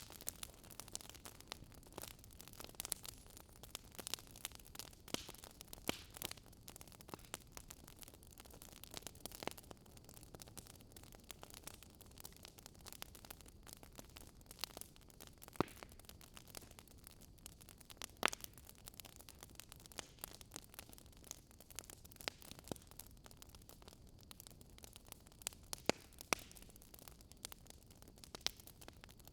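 Wood fire in a fireplace crackling: irregular sharp snaps and pops over a soft steady hiss, a few pops louder than the rest.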